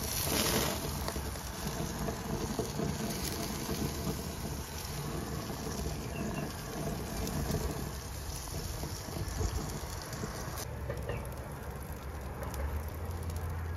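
Rain falling steadily, with a low hum underneath that grows a little louder near the end.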